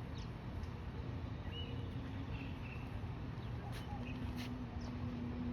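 Outdoor ambience: a steady low rumble with faint distant voices and a few short, high bird chirps.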